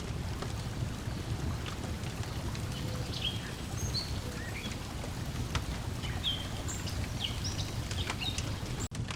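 Lakeside ambience: a steady low wash of water lapping at the shore under a wood fire crackling with scattered pops, and birds chirping in short calls from about three seconds in. The sound cuts out for an instant near the end.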